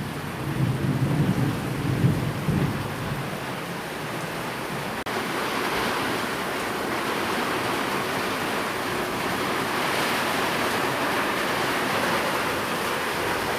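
Steady rain hiss with the tail of a thunder rumble fading out over the first few seconds. About five seconds in the sound drops out for an instant, and a steadier, brighter rain hiss carries on.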